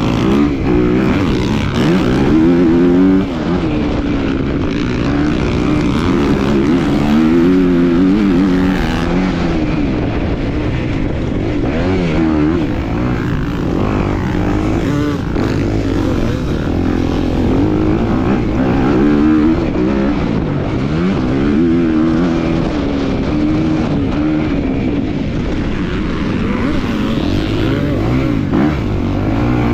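250cc motocross bike engine racing, its pitch rising and falling again and again as it revs out and drops back.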